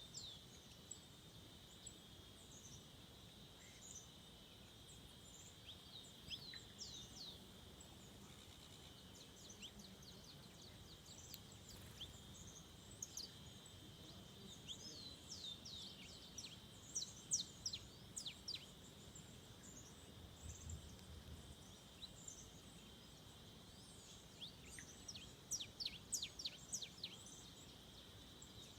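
Forest birds calling in quick series of short, high, sharply down-slurred notes, busiest in two bursts in the second half, over a steady high-pitched drone.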